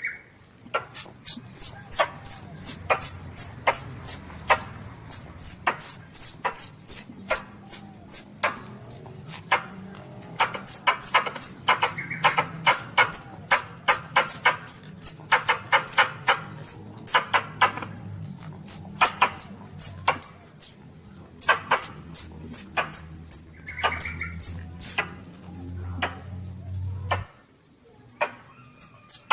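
Asian palm civet kittens calling: a fast run of short, high, sharply falling squeaks, about three a second, with brief pauses, mixed with sharp clicks and a low hum that stops near the end.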